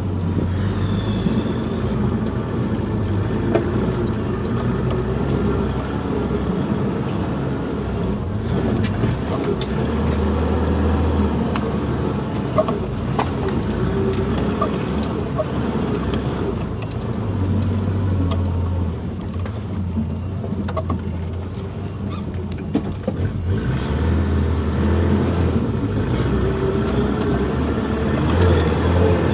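Suzuki Jimny engine running at low speed while crawling off-road, its hum swelling and easing, with scattered light knocks and clicks.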